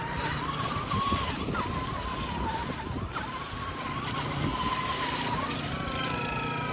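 Electric motor of a radio-controlled car whining steadily, its pitch wavering with the throttle, over the hiss of tyres running through snow. Higher tones join the whine near the end.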